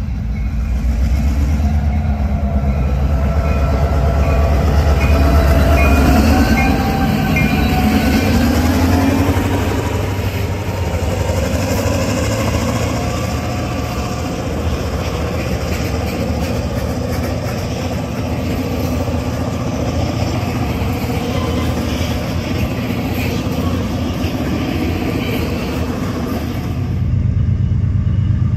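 Diesel freight locomotive passing close by, its engine working hard under load, followed by loaded freight cars rolling past on the rails. Wavering high squeals are heard in the first ten seconds.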